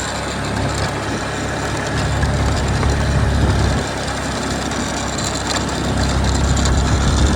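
Small motorbike engine running steadily, with a rush of wind and road noise over it.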